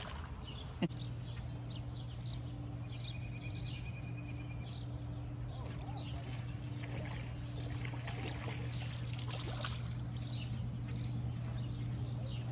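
Water trickling and splashing around a canoe, over a steady low hum, with faint short bird chirps and a single click about a second in.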